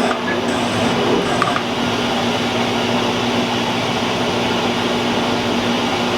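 Metal-cutting machine tool running steadily with a constant hum while a radius is cut along the edge of a thick steel plate; a few light clicks in the first second and a half.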